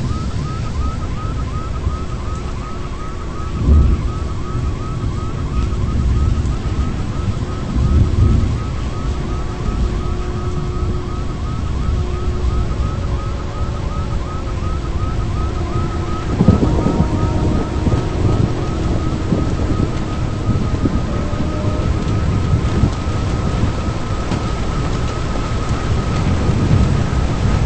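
Low wind rumble on the microphone, with a high electronic chirp repeating about three times a second and faint held siren-like tones that shift in pitch. There are a few louder thumps, about 4 and 8 seconds in and again past the middle.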